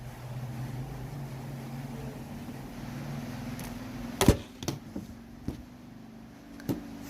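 A steady low hum, with a few sharp clicks or knocks from handling something close by. The loudest knock comes about four seconds in, followed by three fainter ones.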